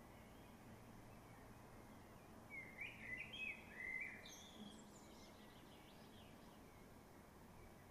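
Near silence with a short phrase of bird song about two and a half seconds in: a quick run of rising and falling chirps lasting about two seconds.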